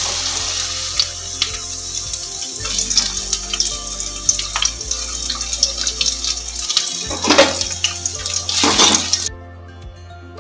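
Sliced bitter gourd sizzling and crackling in hot mustard oil in an aluminium kadai, with soft background music underneath. The sizzle cuts off suddenly about nine seconds in, leaving only the music.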